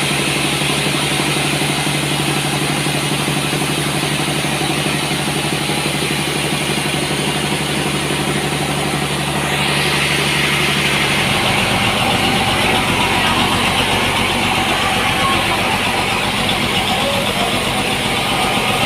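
Sawmill machinery running steadily: a constant engine hum with a hiss above it. The engine note shifts about eleven seconds in.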